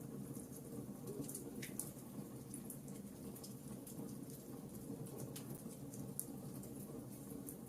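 Wood fire burning in a fireplace: irregular sharp crackles and pops from the logs, several a second, over a steady low rush of the flames.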